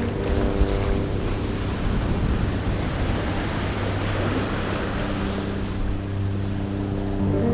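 Sea surf and wind noise, with a low steady hum of several held tones that fades out in the middle and comes back near the end.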